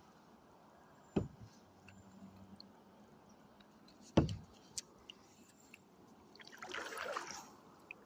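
Kayak paddling on calm water: two sharp knocks, the second the louder, then a short splash and trickle of water about a second long near the end.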